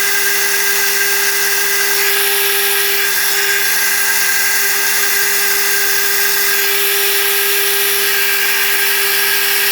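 Milling machine spindle running at a steady speed, a constant hum with a high whine over it.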